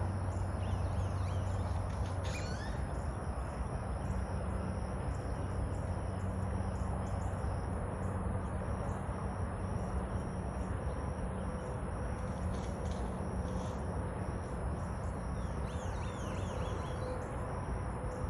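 Outdoor ambience of insects trilling steadily, with a few short falling bird chirps about two and a half seconds in and a cluster of them near the end.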